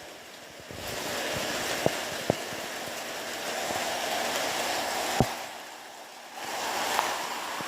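Rain falling in a steady hiss that thins out twice, with a few sharp single drops or taps standing out.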